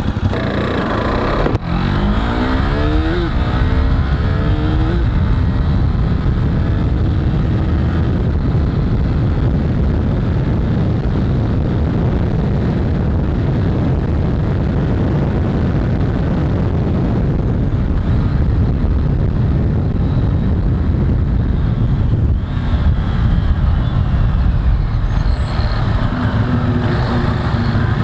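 Motorcycle on the road: a couple of seconds in, the engine revs up with a rising pitch, then settles into a steady rush of engine and wind noise.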